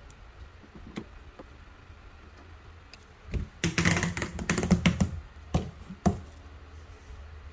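A quick flurry of sharp clicks and taps lasting about a second and a half near the middle, with a few single clicks before and after it, over a low steady hum.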